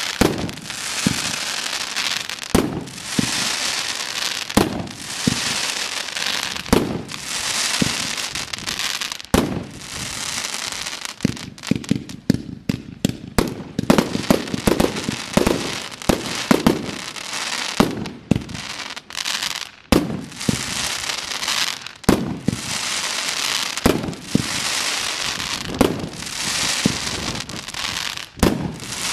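Fireworks display: sharp bangs every second or two over a steady crackling hiss, easing a little around the middle.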